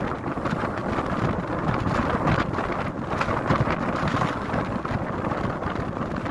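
Wind buffeting the microphone: a steady, loud rushing noise with irregular gusts.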